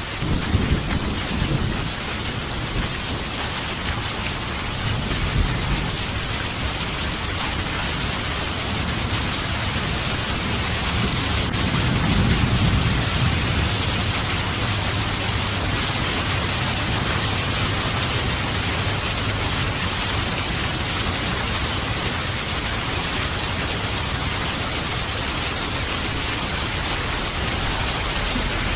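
Steady heavy rain hissing, with low rolls of thunder rumbling near the start and again about halfway through.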